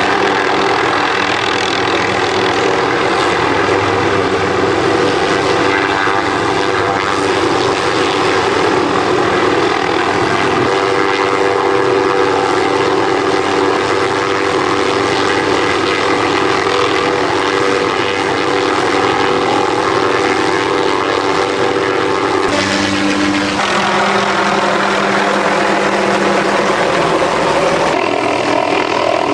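Helicopter turbine and rotor running steadily at close range. The pitch of the sound shifts abruptly about two-thirds of the way through.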